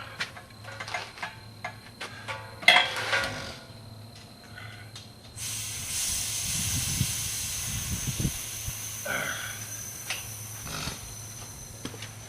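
A few metal tool clanks, then about five seconds in a steady hiss of compressed air starts suddenly and runs for about five seconds before fading.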